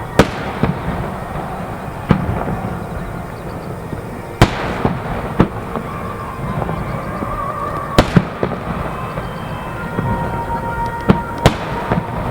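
Aerial fireworks bursting: sharp booming bangs every one to three seconds, two in quick succession about eight seconds in, over a continuous rumble and crackle of further shell bursts.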